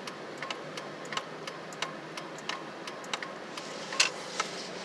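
Turn-signal clicker ticking steadily inside a pickup truck's cab as it turns off onto a side street, over the low hum of the truck on the snowy road.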